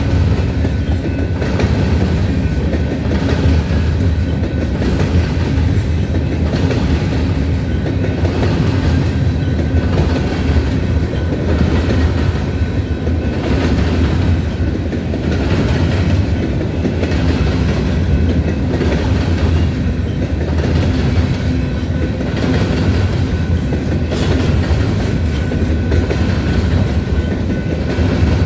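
Freight train of grain cars rolling past, a steady, loud rumble of steel wheels on the rails.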